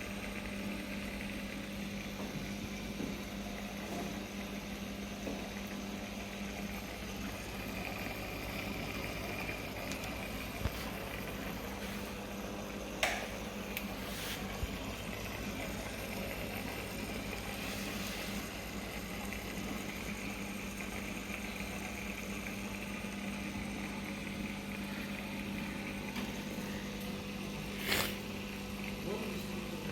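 Aquarium pump running with a steady hum over a haze of bubbling water, broken by a few sharp clicks, the loudest about halfway through and near the end.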